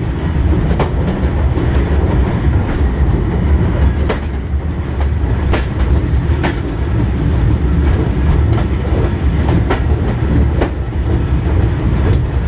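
Old train running along the track: a steady low rumble with irregular sharp clacks of the wheels over rail joints.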